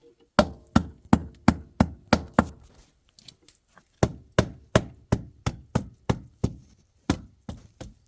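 A tool striking wood in quick, even blows, about three a second, in two runs with a short pause between them.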